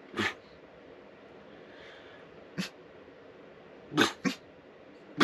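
A dog giving four short, sharp alert barks, one near the start, one in the middle and two close together near the end.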